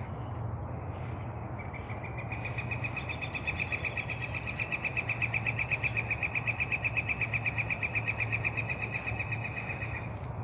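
A bird giving one long, rapid trill of evenly spaced notes for about eight seconds, starting a second or two in, with a thin higher note over it for a moment near the start. A steady low hum runs underneath.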